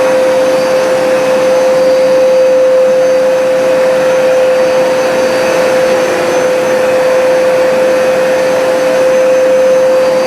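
Hoover Smartwash automatic carpet cleaner running its suction motor in drying mode, pulling moisture up out of a damp carpet. The sound is a steady hum over rushing air.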